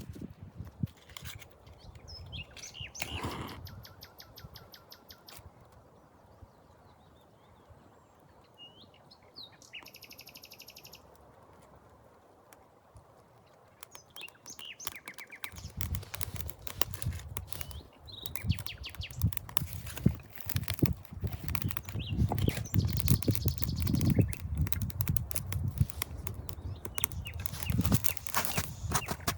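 Small birds chirping and trilling in a quiet forest. About halfway through, a louder, close run of rustling and knocking starts and keeps on.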